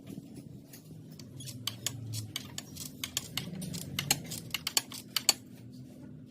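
A run of irregular sharp clicks and taps, thickest between about one and five seconds in, over a low steady hum.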